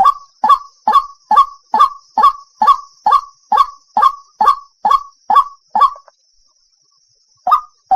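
White-breasted waterhen (ruak-ruak) lure call: loud, harsh notes repeated evenly about two a second. The calling breaks off about six seconds in and resumes near the end.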